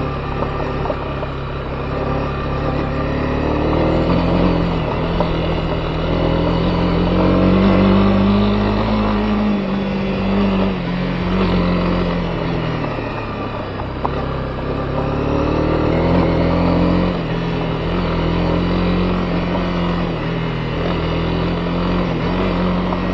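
Honda CB250R's single-cylinder four-stroke engine running under way, its revs rising and falling with the throttle: it climbs to a peak about eight seconds in, eases off, then picks up and holds again later.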